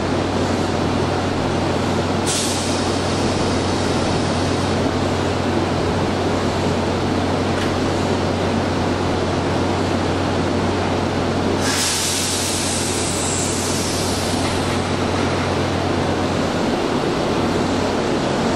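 Keihan 2400-series electric commuter train standing at an underground platform over a steady low hum. There is a sharp hiss of released compressed air about two seconds in and a longer, louder one about twelve seconds in. Near the end the train starts to pull away.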